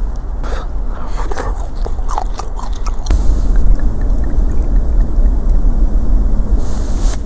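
Crunchy chewing and biting on spicy chicken feet, a quick run of crisp clicks for about three seconds, then a steady wind rumble on the microphone.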